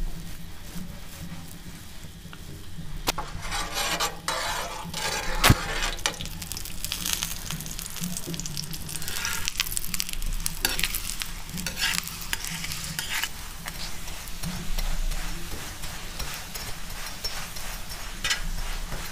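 A paratha frying in oil on a flat tawa: oil sizzling from a few seconds in, with a steel spatula scraping and pressing the bread against the pan in quick clicks and scrapes, one sharp click about five seconds in.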